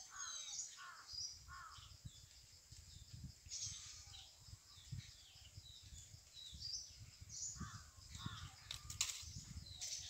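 Birds calling in the trees: a mix of short chirps and harsher, crow-like calls, with a low rumble beneath and a sharp click about nine seconds in.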